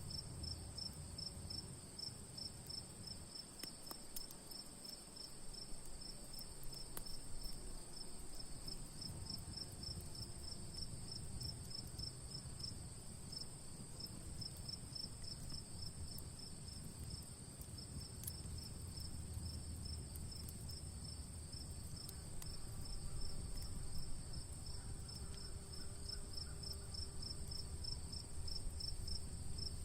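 Crickets chirping in an even, unbroken pulse over a steady high insect hiss, with a low rumble and occasional faint pops from a crackling campfire.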